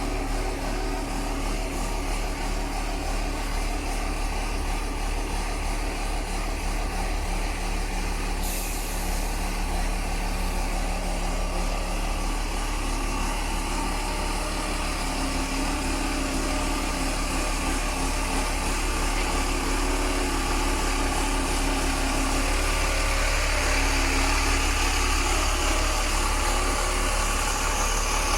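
Truck diesel engine, the crane truck's Cummins 190 hp, running steadily with a continuous hum. A short hiss comes about eight seconds in, and the sound grows a little louder in the last third.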